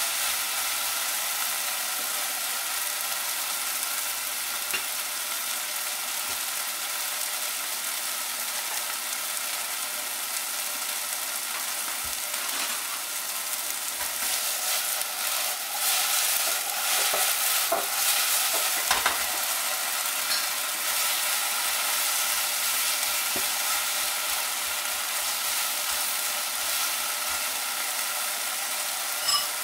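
Chicken and garlic sizzling steadily in a hot nonstick frying pan, with clicks and scrapes from the utensils stirring the pieces, busiest a little past halfway and with one sharp click near the end.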